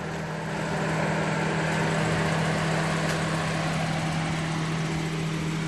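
A 2011 Subaru Outback's 2.5-litre flat-four boxer engine idling with a steady, even hum.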